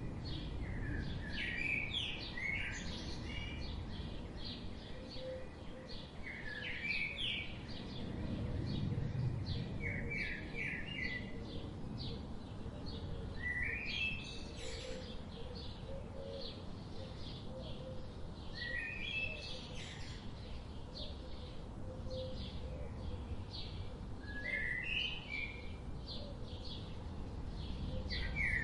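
Songbirds singing outdoors. One bird repeats a short phrase of quick rising notes every few seconds, over steady fast chirping from others and a low rumble of background noise.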